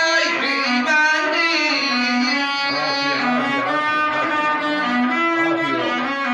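Bedouin rababa, a one-string bowed fiddle, playing a melody with notes held about half a second each.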